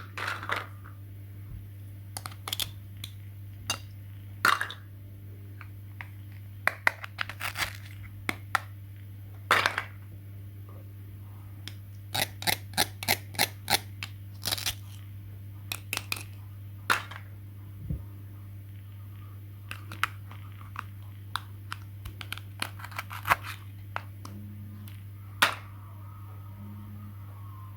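Sharp clicks and knocks of small hard objects being handled and set down, in irregular runs, over a steady low hum.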